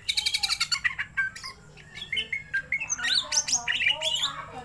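Cucak ijo (green leafbird) singing: a fast rattling run of repeated high notes, then a varied stream of chirps and slurred, gliding whistles.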